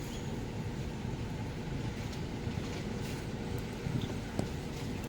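Road noise inside a moving car: a steady low rumble, with a brief click about four and a half seconds in.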